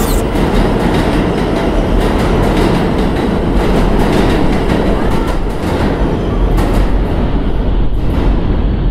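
Subway train running with a steady low rumble and a continuous rattle of wheel and car clatter.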